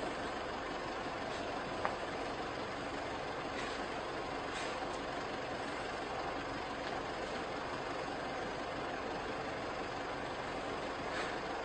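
A vehicle engine idling steadily, with a single sharp click about two seconds in.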